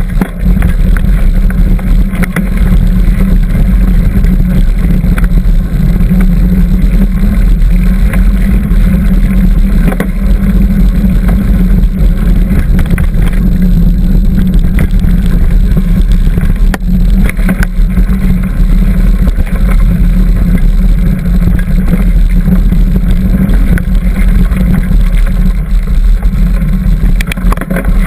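Loud, steady low rumble of wind buffeting the microphone on a moving bicycle ride, with faint clicks and rattles from the bike on the trail.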